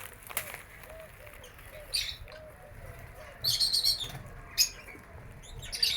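Lovebirds chirping in short, high bursts, with a busier flurry of chirps a little past the middle.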